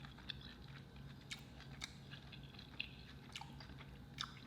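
Close-miked mouth sounds of someone chewing seafood: soft, faint chewing with about half a dozen scattered wet clicks and smacks, over a faint steady low hum.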